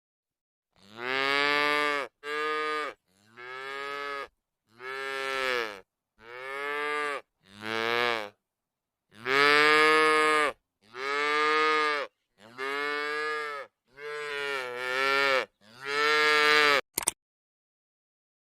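Cattle mooing about eleven times in a row, each moo a drawn-out call that rises and falls in pitch, with short pauses between calls. A brief click comes near the end.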